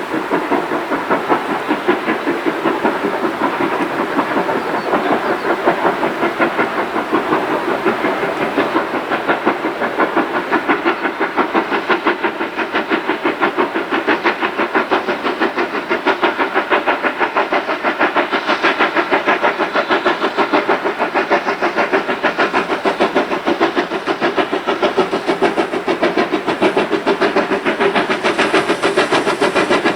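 Steam locomotive running under power, its exhaust giving rapid, even beats.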